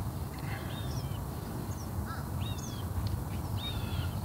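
A bird calling over and over: short, clear, high-pitched notes repeated about every half second to a second, over a steady low rumble.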